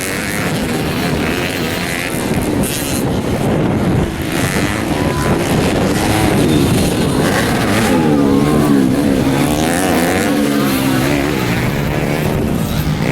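Several stock underbone motorcycles racing on a dirt track, their engines revving up and down one over another.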